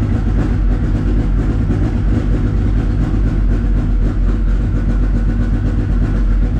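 Honda CRX engine running on E85, idling steadily while its idle is being tuned.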